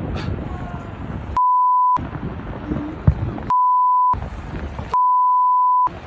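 Three censor bleeps: a steady 1 kHz tone that replaces the audio entirely, the first two short and the last a little longer, about a second and a half apart.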